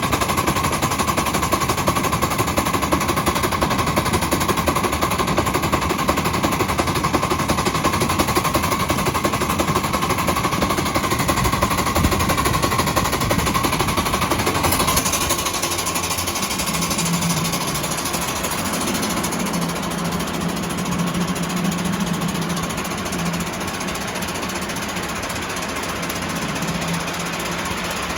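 Ride-on scale live-steam Mikado locomotive working, its exhaust chuffing in rapid beats; about halfway through the beats stop and the engine drifts with a steady steam hiss and a low hum.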